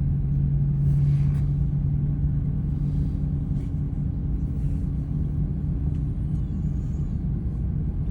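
Steady low rumble and hum of an Airbus A330-300 on the ground, holding one pitch without spooling up, with a few faint rustles.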